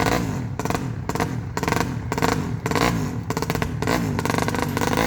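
Freshly rebuilt MD250 engine running with the throttle blipped over and over. The pitch rises and falls about once every 0.7 seconds.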